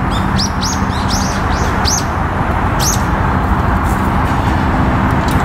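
Small birds chirping: a quick run of short, high chirps in the first two seconds and another about three seconds in, over steady traffic noise from a busy expressway.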